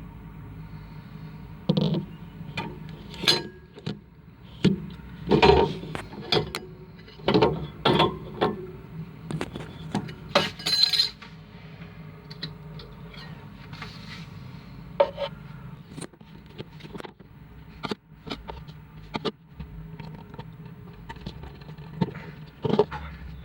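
Irregular clinks and knocks of small hard objects being handled, thickest in the first half and sparser later, over a steady low hum.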